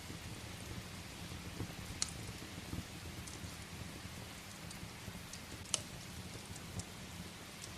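Steady rain with a wood fire crackling: scattered sharp pops over the even hiss of the rain, the loudest about two seconds in and just before six seconds.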